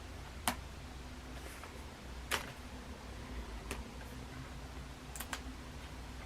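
A few sharp clicks and taps from a package being handled and opened, spaced irregularly a second or more apart, with a close pair near the end, over a low steady hum.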